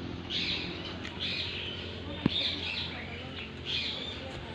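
A bird calling over and over, a short high call about every two-thirds of a second, with one sharp click about halfway through.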